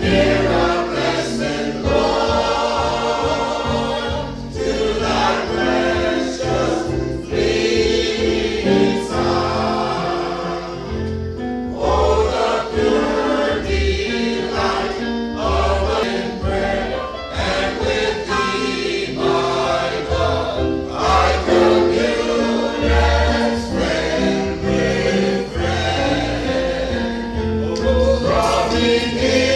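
Choir singing a gospel song over instrumental accompaniment, with a bass line underneath.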